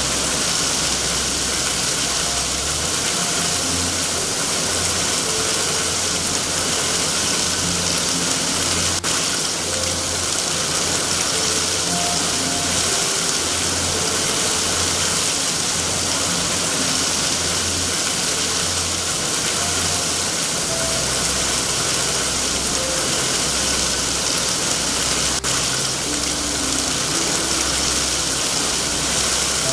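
Steady rain hiss over a low, even rumble, with two faint ticks about nine seconds in and near the end.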